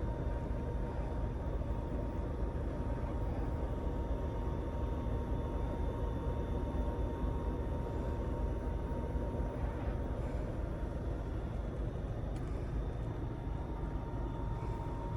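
Scania Astromega double-decker bus driving, heard from inside: a steady low rumble of engine and road noise, with a thin steady whine running through it.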